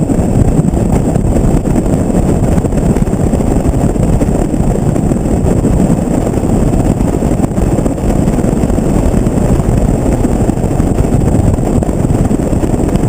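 Steady wind buffeting a GoPro's microphone, mixed with the rumble of a pickup truck driving on a highway, heard from a camera riding in the open truck bed.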